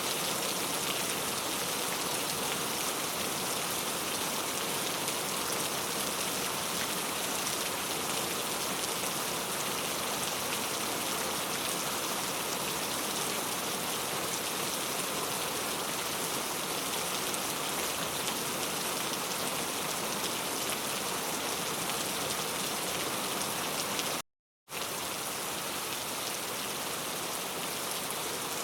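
Steady, even rain falling, with a brief drop to complete silence for under half a second near the end.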